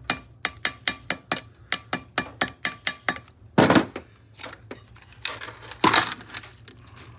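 Light metallic clicks at an even pace, about four a second, for about three seconds, followed by two louder clunks from metal engine parts and tools being handled.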